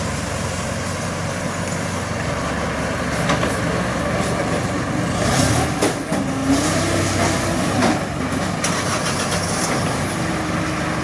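Heavy vehicle engine running steadily, with a few sharp metallic knocks in the middle and a brief whine twice.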